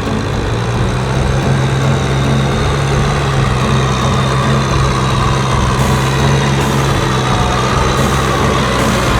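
Kubota M6040SU tractor's diesel engine running steadily, with a deep steady hum and a faint higher whine over it.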